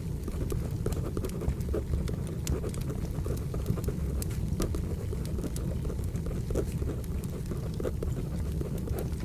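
Crackling wood fire: a steady low rumble of burning logs with frequent small sharp pops and snaps.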